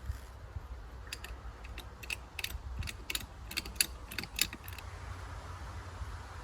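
A run of sharp metallic clicks, about fifteen over some three seconds at an uneven pace, from the press setup being worked to push a new rubber-bushed hub into a propeller. A steady low hum runs underneath.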